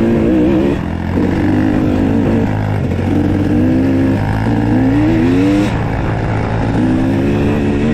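Dirt bike engine riding a trail, its pitch climbing and dropping several times with the throttle, over a steady low rumble.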